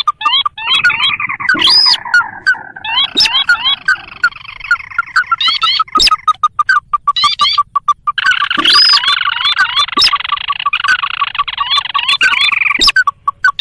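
Sintar (ruddy-breasted crake) lure calls: rapid series of short rising notes, many each second, with several calls overlapping at once.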